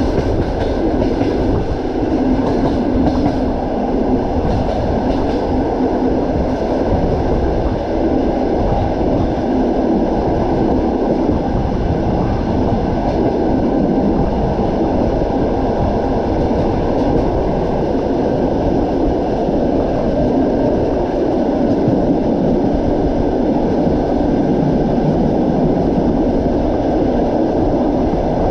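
Passenger train running steadily on the rails: a continuous low rumble of wheels and carriage, with a few faint clicks in the first few seconds.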